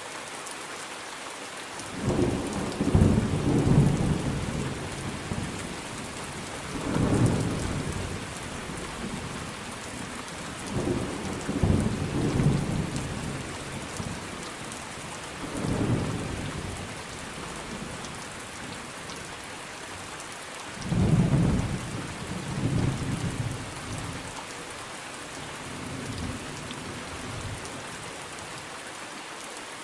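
Steady rain falling with repeated rolls of thunder: a loud rumble about two seconds in, more rumbles through the middle, and a quieter stretch of rain alone near the end.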